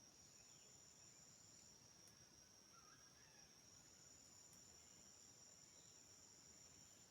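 Faint, steady high-pitched insect chorus of the forest, a pair of shrill tones, the higher one cutting out for about a second and a half midway.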